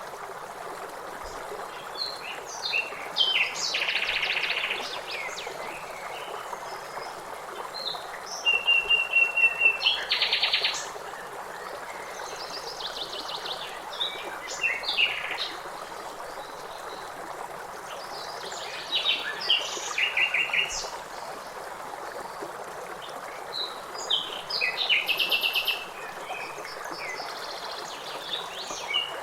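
Birds singing and calling in bursts of quick trills and repeated notes over a steady rush of river water.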